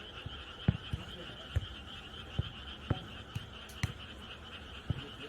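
Steady night chorus of frogs, a continuous trilling, with a dozen or so scattered dull thumps.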